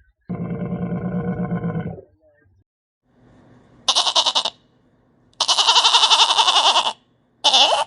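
Sheep bleating: one low, wavering bleat, then three higher, shriller bleats, the middle one the longest.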